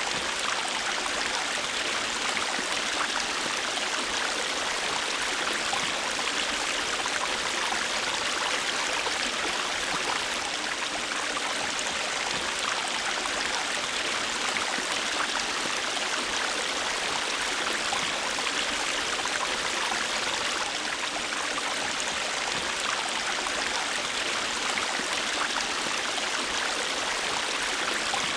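A river or stream running steadily over rocks: a continuous, even rush of water with fine splashing and no breaks.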